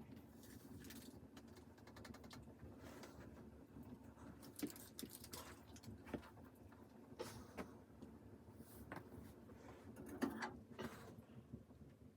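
Quiet, scattered light clicks and rustles of something being handled, over a low steady hum.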